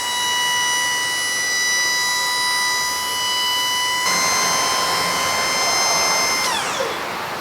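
Electric-hydraulic pump motor of a one-ton truck's dump body whining steadily as it raises the bed. About four seconds in it grows louder and harsher. Past six seconds it cuts out and its pitch falls as the motor spins down.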